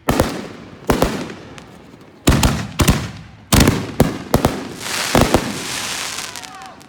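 Fireworks going off: a series of sharp bangs about a second apart, each with a fading rumble. From about five seconds in, a dense crackling hiss with faint whistles takes over, as of crackling or whistling shells.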